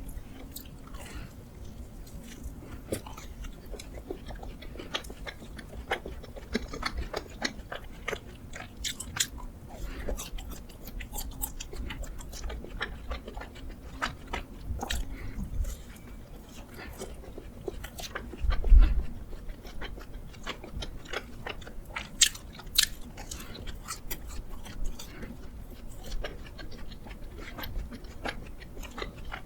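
Close-miked biting and chewing of donuts, with many small moist clicks and soft crunches. One louder dull thump comes about two-thirds of the way through.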